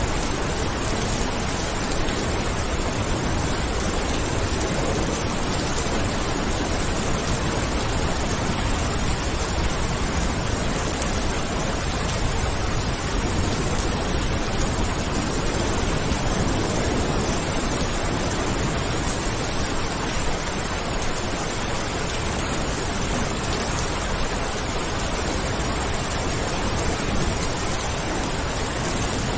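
Steady rain falling, an even hiss with no distinct drops or thunderclaps standing out.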